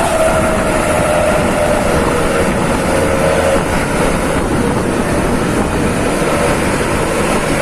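Bus engine and exhaust running steadily, with a held droning tone that sags slightly in pitch during the first few seconds.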